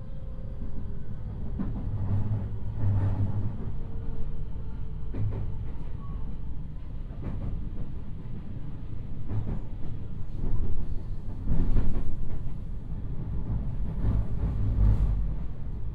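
Inside a JR 223 series electric train running on the line: a steady low rumble of wheels on rail, with a knock every second or two as the wheels pass over track joints.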